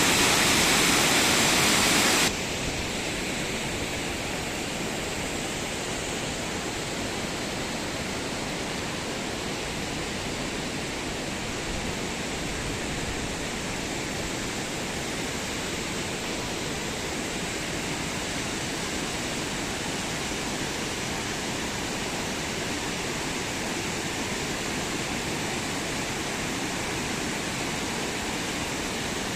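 Steady rushing noise, loud for the first two seconds, then dropping suddenly to a quieter, even hiss.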